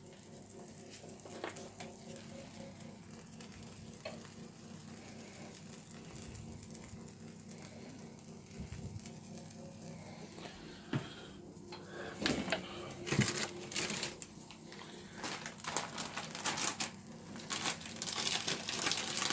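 Omelette mixture cooking quietly in a frying pan over a low steady hum. About twelve seconds in, bursts of crinkling and crackling start and grow denser towards the end as seasoning is added.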